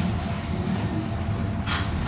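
Tyne and Wear Metro train running with a steady low rumble, and a short hiss near the end.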